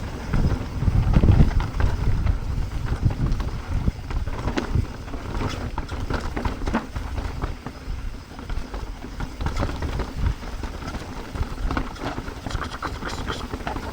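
Mountain bike descending a dirt trail: wind rumbling on the microphone over tyre noise, with frequent short clicks and rattles from the bike over bumps.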